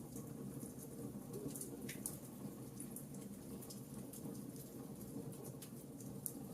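Campfire crackling: irregular sharp pops and snaps, several a second, over a soft steady low rush.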